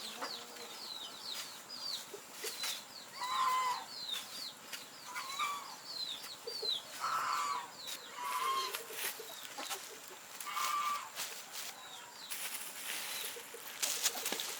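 Chickens clucking, a short pitched call every second or two, over a steady run of quick high chirps and scattered light clicks.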